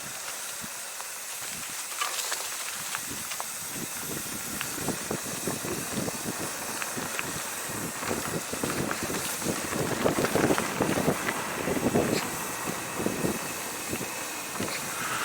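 Bicycle on the move: a steady rush of wind and tyre noise, with irregular rattling and knocking of the bike over rough ground that builds from about four seconds in and is loudest a little past the middle.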